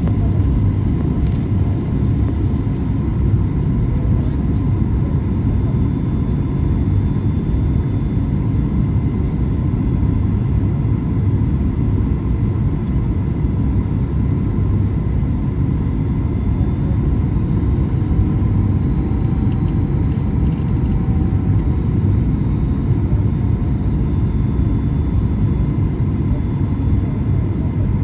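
Steady low roar inside the cabin of a Boeing 737 MAX 8 in flight: its CFM LEAP-1B engines and the airflow over the fuselage, unchanging throughout.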